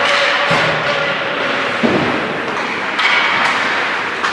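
Busy noise of a large indoor hall during a game, with sharp thumps about two and three seconds in.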